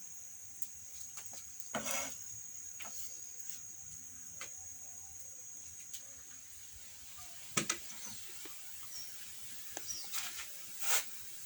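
Steady high-pitched chirring of crickets, with a few scattered clicks and knocks, the sharpest about two seconds in, midway and near the end.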